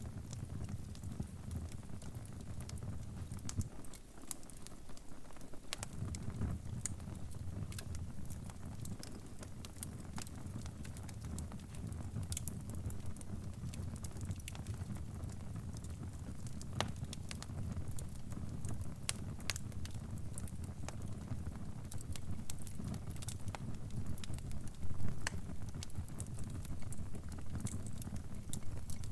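Wood fire crackling: a steady low rumble of burning with irregular sharp pops and snaps. The rumble drops away for a couple of seconds about four seconds in.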